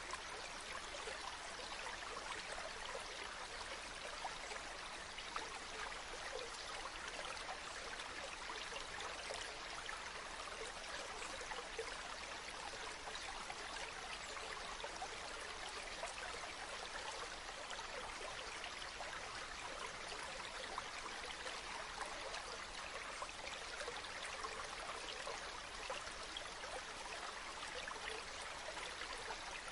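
Water running in a stream: a steady, even rush with fine trickling detail and no breaks.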